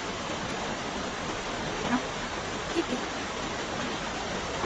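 Steady rushing of flowing river water. Brief faint voice sounds come about two seconds in and again a little later.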